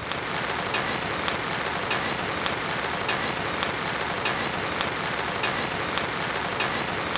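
Steady rain falling, an even hiss, with a sharp drip landing at a regular beat a little under twice a second.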